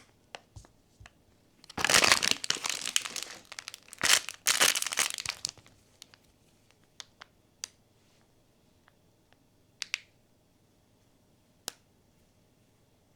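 Plastic or foil packaging crinkling and tearing in two bursts in the first half, followed by scattered small clicks and taps.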